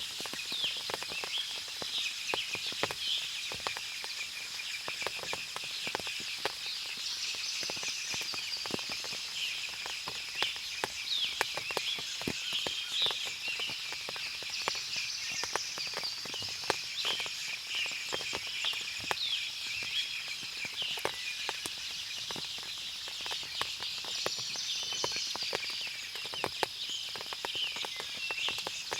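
Forest ambience after rain: many birds chirping and calling over a steady high-pitched insect drone, with scattered sharp ticks throughout.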